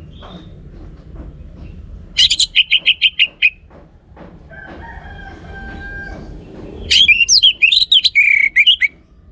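Orange-headed thrush singing in two loud bursts: first a quick run of about ten sharp, evenly repeated notes, then, about seven seconds in, a two-second phrase of fast, varied notes.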